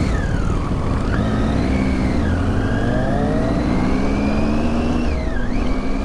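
Several motorcycle engines running together, some revving so their pitch rises and falls.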